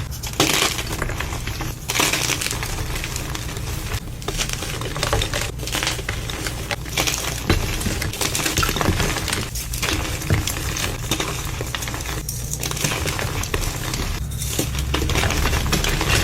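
Concrete being mixed: continuous gritty scraping and crunching, with small stones clinking.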